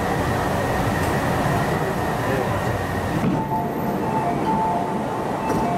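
Interior running noise of an MTR East Rail Line R-train carriage: a steady rumble and rush with a thin high ringing tone. About three seconds in, the hiss eases and a short series of steady tones alternating between two pitches sounds.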